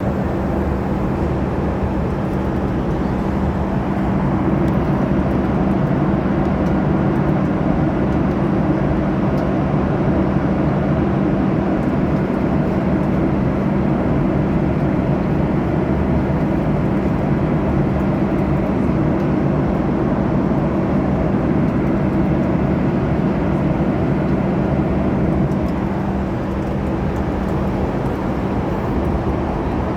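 Aeroplane cabin noise in flight: the steady drone of engines and rushing air, with a low steady hum running through it. It eases off slightly near the end.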